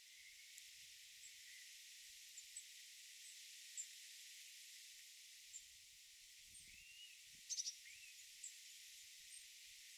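Faint, scattered bird chirps and short calls over a steady high hiss, with a quick run of sharp chirps about seven and a half seconds in.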